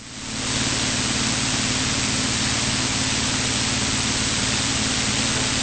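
Steady cockpit noise of a Cessna 182 in flight: a loud even hiss of engine, propeller and airflow over a low steady drone, fading in over the first half second.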